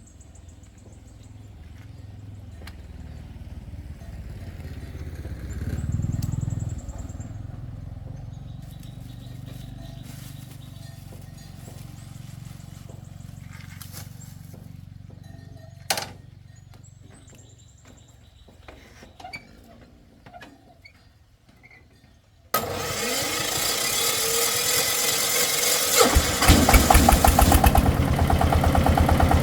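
An engine starting: a low rumble swells and fades, with one sharp knock midway. About three-quarters of the way in, a sudden loud noise sets in, and near the end the engine catches and runs with fast, even firing.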